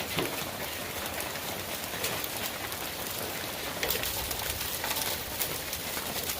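Heavy rain mixed with hail falling and striking surfaces: a steady hiss with many scattered sharp ticks.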